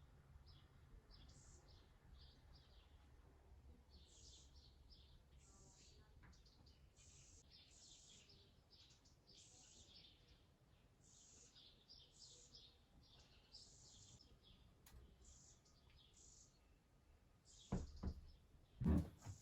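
Faint chirping of small birds: many short, high calls in quick succession. Near the end there are two louder, dull thumps.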